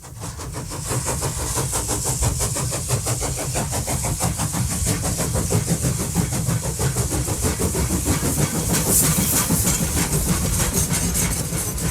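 A motor vehicle engine running steadily, with a low rumble and a high hiss over it; it builds over the first second.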